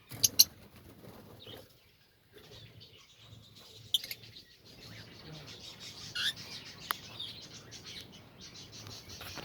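Lovebirds in a colony cage giving short high chirps, with wing flaps and a few sharp clicks, the loudest just after the start.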